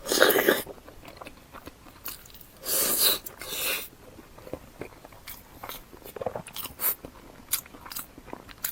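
Close-miked mouth sounds of someone eating spicy pig brain: a loud bite right at the start and another about three seconds in, then quieter chewing clicks.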